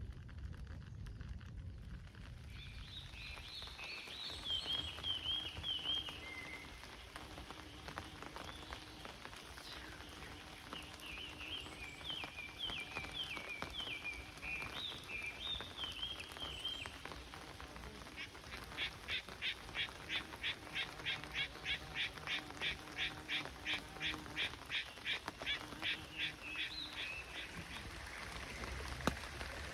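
Small birds chirping in short phrases, then a long, very regular series of about twenty-five pulsed croaks, about three a second, typical of a Japanese tree frog calling in rain.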